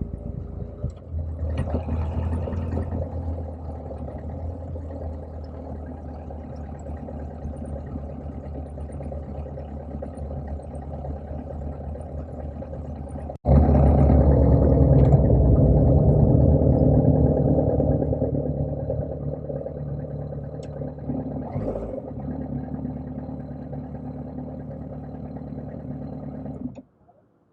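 Motorcycle engine running at a steady speed while riding. About halfway through the sound jumps abruptly to a much louder stretch, which then slowly fades back down, and it cuts off sharply near the end.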